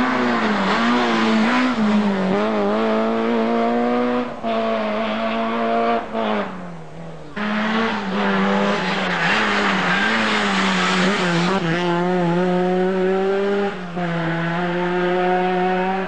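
Rally car engine pulling hard at high revs, its pitch stepping and dipping with gear changes. About six seconds in it briefly lifts off, quieter and falling in pitch, then pulls again.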